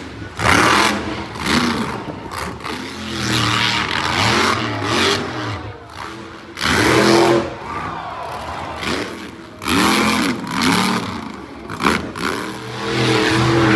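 Monster truck engine revving hard and repeatedly, its pitch climbing and dropping in quick arcs. There are loud full-throttle surges about half a second, 7, 10 and 13 seconds in.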